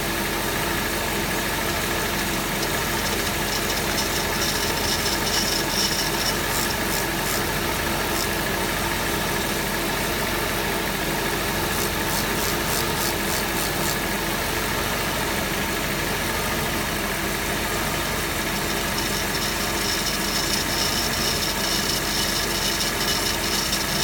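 Mercedes-Benz 500E V8 idling, with a high, thin squeal from the accessory drive belt. The squeal comes in a few seconds in, fades, and returns near the end.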